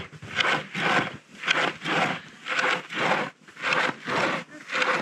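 Hand saw cutting through a tree trunk: steady back-and-forth rasping strokes, about two a second.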